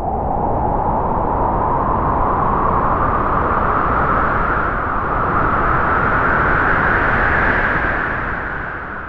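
Halloween horror sound effect: a long, rushing, hiss-like roar whose pitch slowly rises, then begins to fade near the end.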